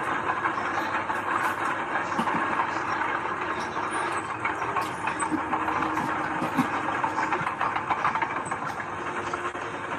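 Heavy earthmoving machinery at work: a steady engine noise with scattered clanks and knocks.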